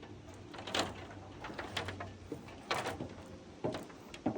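Several short, sharp knocks, roughly one a second, over a low steady hum.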